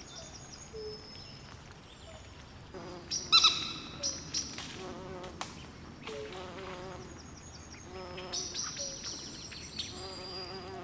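Swamp night ambience: insects trilling steadily at a high pitch, with frogs calling in short repeated chirps and trills. A loud bird call stands out about three seconds in.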